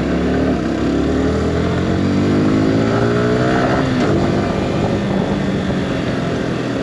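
Yamaha R15 V4's single-cylinder engine accelerating, its pitch rising steadily for about three and a half seconds, then dropping sharply about four seconds in and running on lower and steadier.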